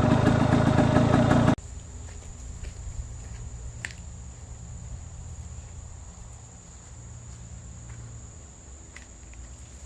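A loud engine running, cut off abruptly about a second and a half in. Then comes quiet outdoor ambience with a steady high-pitched insect drone and a couple of short chirps.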